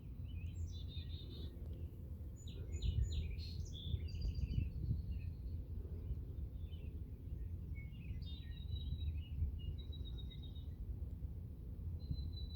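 Songbirds calling and singing, with short repeated chirps and quick trills overlapping throughout, over a steady low background rumble.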